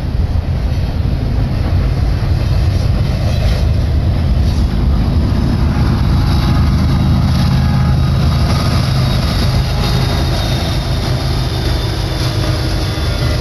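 BNSF double-stack container train rolling past close by: a loud, steady rumble of steel wheels on rail. Near the end the rear distributed-power diesel locomotives come by, adding their engine drone.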